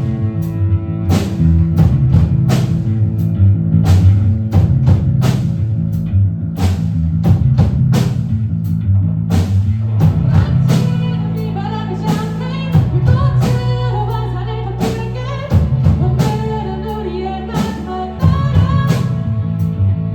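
Live rock band playing, with electric guitar, bass and drum kit. About ten seconds in, a sung vocal line comes in over the band.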